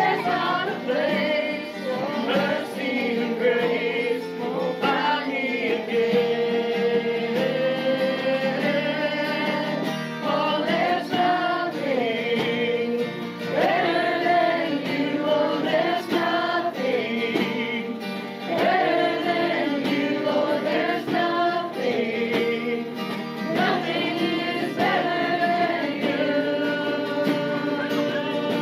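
Voices singing a praise song together, accompanied by guitar.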